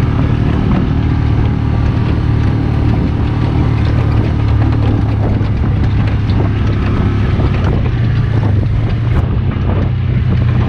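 Polaris utility vehicle's engine running steadily while driving, with some wind noise on the microphone.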